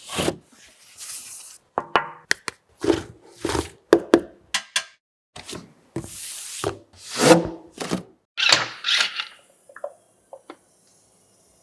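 Close-up ASMR tapping and rubbing on hard surfaces: a string of separate taps, clicks and short brushing strokes, each under a second, with no engine running.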